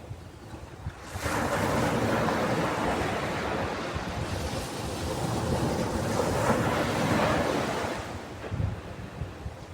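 Ocean waves breaking on a shore: a wave surges in about a second in, its wash hisses on for several seconds, and it falls away near the end.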